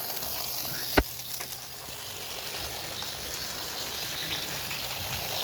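Graham Farish N gauge Merchant Navy model locomotive running toward the microphone: a steady whirring hiss from its tiny motor and wheels on the track that slowly grows louder as it approaches, with one sharp click about a second in.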